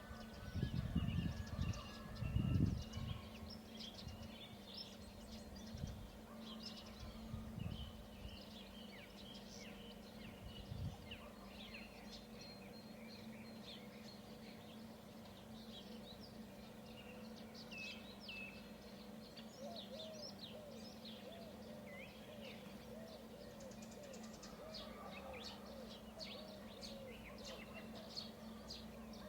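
Small birds chirping and calling on and off over a steady low hum, with a few loud low thumps in the first three seconds.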